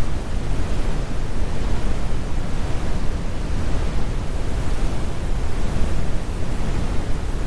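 Steady, heavy brown noise: a constant low rumble with the highs rolled off, unchanging throughout.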